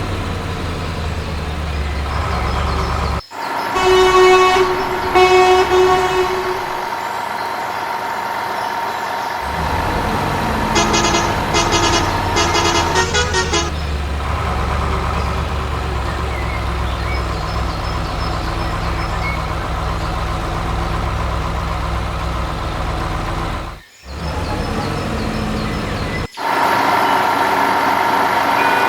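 Heavy truck engine running steadily, with horn honks about four to six seconds in and a string of short toots between about eleven and fourteen seconds. The sound cuts off abruptly three times.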